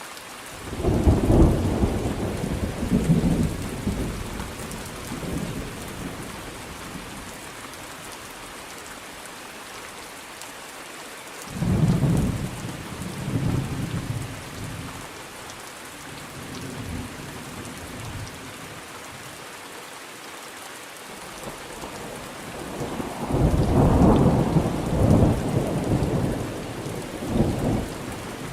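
Steady rain with three rolls of thunder: one about a second in, one near the middle and a long one in the last few seconds.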